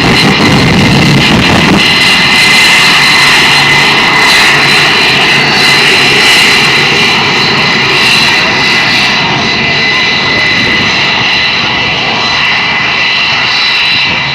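Jet engine of a jet-powered dragster truck running at full power: a loud, steady noise with a high whine through it. The deep rumble drops away about two seconds in.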